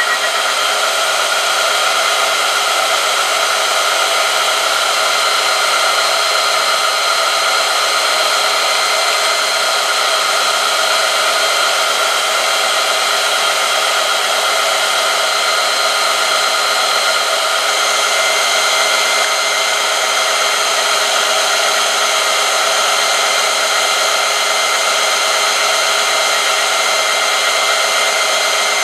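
Oil-film strength test machine running under load: a motor-driven rotating shaft rubbing against a steel test sample in hot oil. It makes a steady whirring hiss with several high, even tones held throughout.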